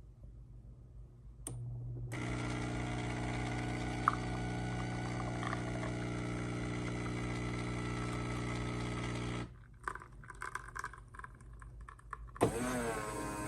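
Café Affetto automatic espresso machine brewing espresso: its pump runs with a steady hum for about seven seconds and then stops, leaving a few faint clicks. Near the end the machine's motor starts up to push the spent coffee puck into the waste bin.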